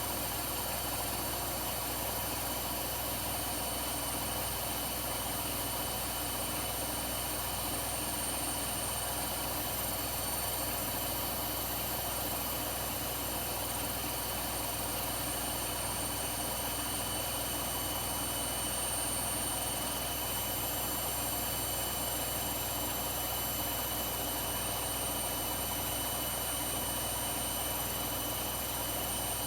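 Washing machines running, a Blomberg and a Hoover side by side, with a steady motor hum and several fixed high-pitched whines over an even mechanical noise.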